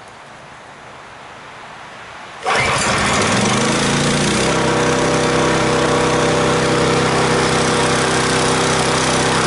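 Small gasoline engine on a flood-damaged water pump catching on a cold start with the choke on, about two and a half seconds in, then running steadily, its speed settling a couple of seconds later. Before it fires there is only wind hiss.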